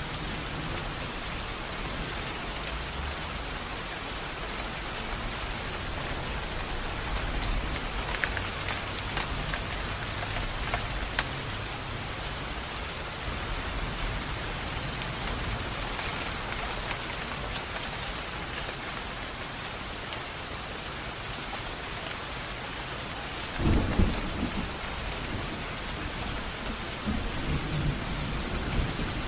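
Steady rain falling on a surface, a continuous hiss, with low rolls of thunder underneath. A short, louder low rumble of thunder comes late on.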